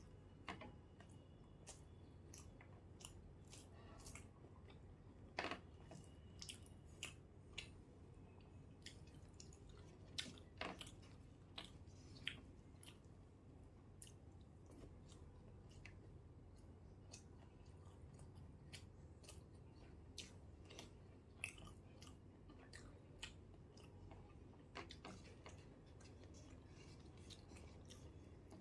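Faint close-miked chewing of soft rice and curry, with irregular wet mouth clicks and smacks, a few louder than the rest.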